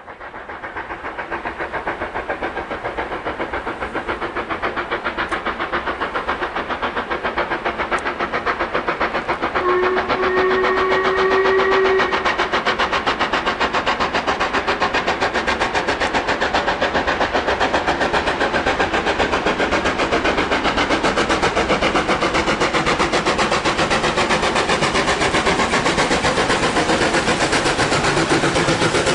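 LMS Black Five steam locomotive approaching and passing under steam, its exhaust beating fast and evenly and growing louder over the first ten seconds. About ten seconds in it sounds its whistle once, a single held note for about two seconds.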